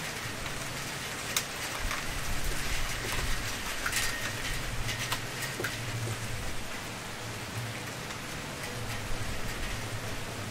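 Wood fire burning: a steady hiss with frequent crackles and pops, the sharpest about a second and a half in and about four seconds in, over a low rumble.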